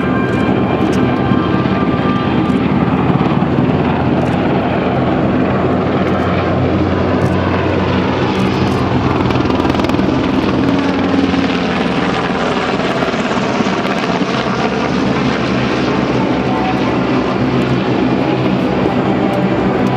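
UH-60J Black Hawk helicopter in flight, its rotor and twin turboshaft engines running loudly and steadily throughout.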